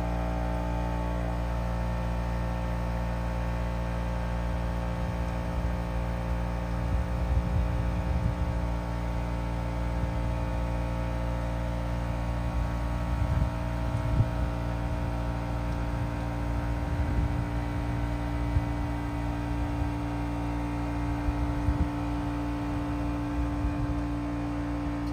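Trane Odyssey commercial heat pump running, a steady hum made up of several steady tones, with some uneven low rumbling through the middle.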